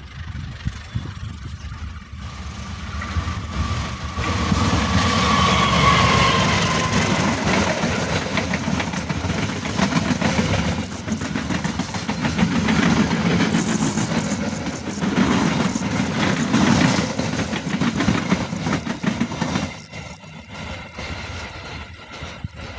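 Diesel-electric locomotive and its passenger coaches passing close by on the rails. The sound builds as the train nears, with a falling tone as the locomotive goes by. The wheels then roll past steadily until the end of the train passes and the sound drops about twenty seconds in.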